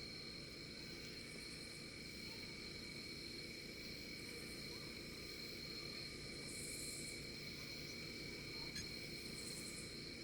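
Outdoor insect chorus: crickets trilling in a steady high drone, with short higher-pitched buzzes from other insects about every two to three seconds, over a faint low rumble.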